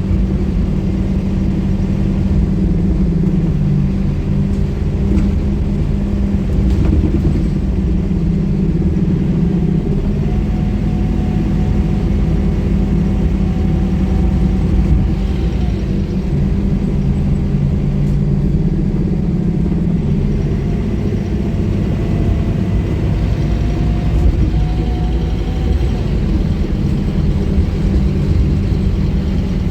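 Scania K230UB bus's five-cylinder diesel engine running steadily under way, a low drone, with a faint whine coming in twice.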